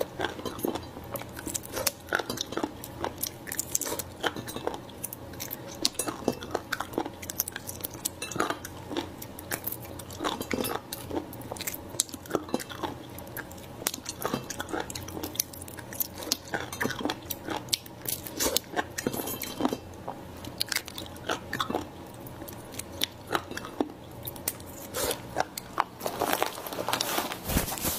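Close-miked eating of raw marinated shellfish: chewing and crunching with many sharp mouth clicks, going on steadily with no pauses of note.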